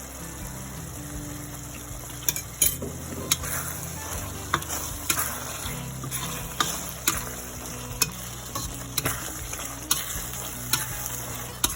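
Chilli sambal sizzling in a pan as it is stirred. From about two seconds in, the stirring utensil taps sharply against the pan about once or twice a second.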